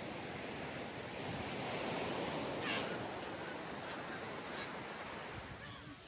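Ocean surf washing onto a sandy beach, a steady rushing wash that swells and eases. A brief higher-pitched sound cuts through the surf about three seconds in.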